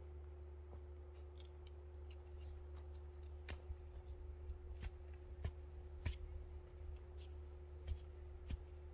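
Irregular light clicks and taps, a dozen or so, spaced unevenly over a steady low hum.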